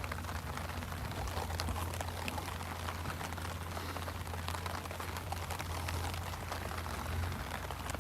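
Steady rain, with many separate drops tapping close by, and a low steady hum underneath.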